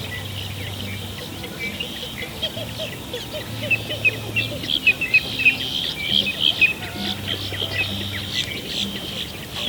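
Many small birds chirping at once, a dense stretch of short quick calls that grows busiest around the middle.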